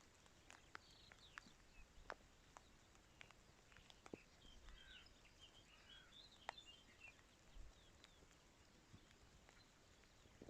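Near silence: quiet rural ambience with faint, distant small birds chirping and twittering, mostly in the middle, and a few soft clicks.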